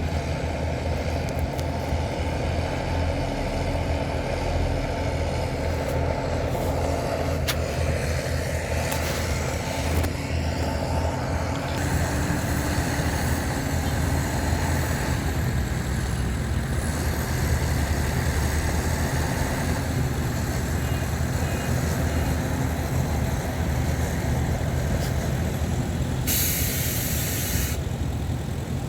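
Heavy diesel engines of a bulldozer and dump trucks running steadily under load. Near the end comes a hiss of released air lasting about a second and a half.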